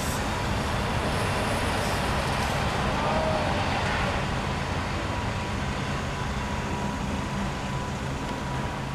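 Freight train rolling past: a steady rumble with a low diesel engine drone and a thin steady whine over it.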